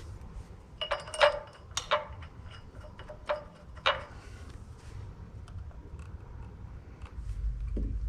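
Metal clinks and taps from bolts and hand tools being handled while bolts are threaded into a flywheel adapter on an engine. A few sharp ringing clinks come in two clusters about a second and two seconds in, and two more come near four seconds, over a low hum.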